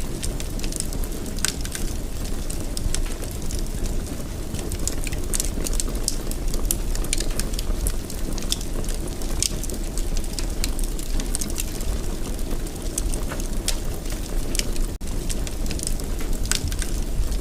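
Wood fire burning in a fireplace: a steady low rumble of flames with frequent irregular crackles and pops. The sound drops out for an instant about fifteen seconds in.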